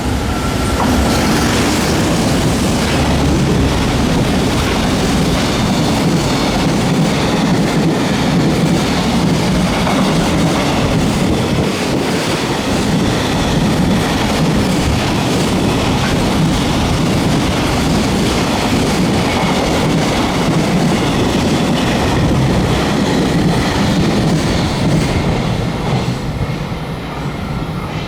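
A freight train hauled by an EF210 electric locomotive passing through at speed: a loud, steady rumble with the rapid clatter of the freight wagons' wheels, easing off near the end as the last wagons go by.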